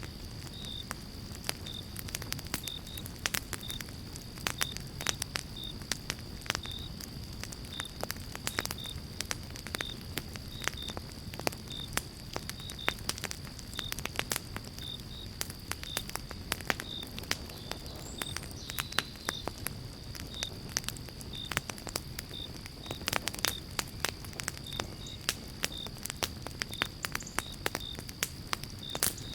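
Pine-log campfire crackling and popping, dense sharp snaps over a steady low rumble of the burning fire. A short high chirp repeats about twice a second throughout.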